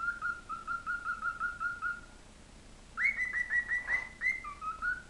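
Pet bird whistling a song: a run of short, evenly repeated whistled notes, then after a short pause a higher series of quick notes dropping to a few lower ones near the end.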